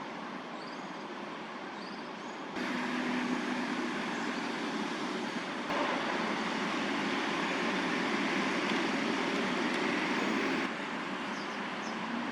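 Steady city traffic noise, a continuous hum with no distinct events, stepping up in level suddenly a couple of times and dropping back near the end.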